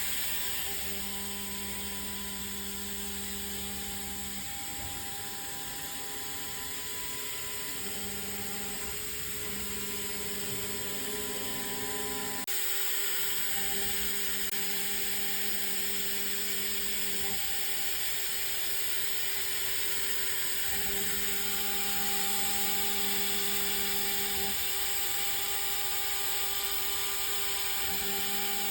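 MX400 desktop CNC mill running steadily while it machines stainless steel: a constant spindle whine and cutting hiss, with a lower hum that starts and stops every few seconds. The hiss grows louder about twelve seconds in.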